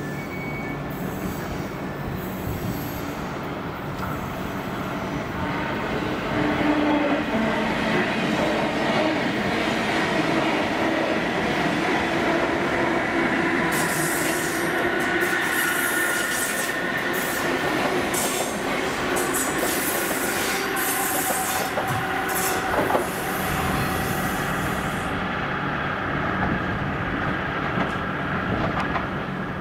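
NS VIRM double-deck electric train running past on curved track, its wheels squealing in a thin steady whine. A rapid run of sharp clicks from the wheels over the rail joints comes in about halfway through and stops a few seconds before the end.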